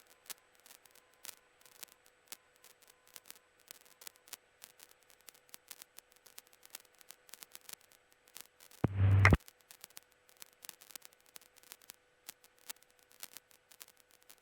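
Faint crackling static and a thin steady hum on a helicopter's radio and intercom feed, with one brief loud burst of radio noise about nine seconds in.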